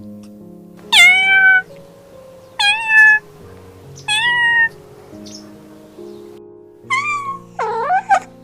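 A cat meowing: three short meows about a second and a half apart, then two more near the end, over soft background music.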